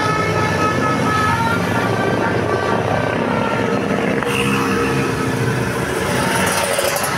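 Bus passing close by: loud engine and road noise, with a musical multi-note horn playing short stepped tones during the first two seconds.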